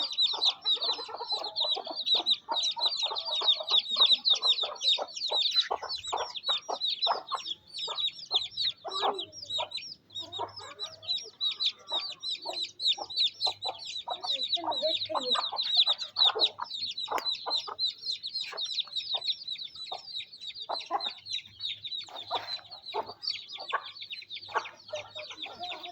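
A brood of chicks peeping non-stop in high, rapid cheeps, with a mother hen clucking lower among them.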